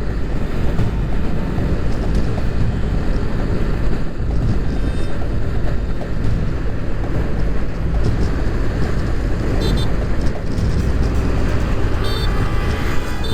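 Motorcycle under way: steady engine and wind noise.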